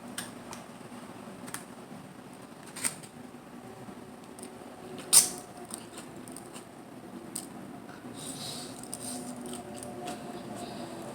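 Close-miked eating of mussels and clams: scattered sharp clicks and clacks of the shells, the loudest about five seconds in, with a soft noisy rustle near the end.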